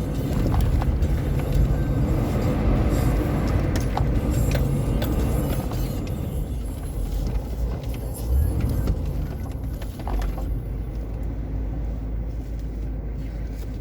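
Off-road vehicle driving over desert sand: a steady low rumble of engine and tyres, with scattered knocks and rattles. The higher hiss fades after about ten seconds.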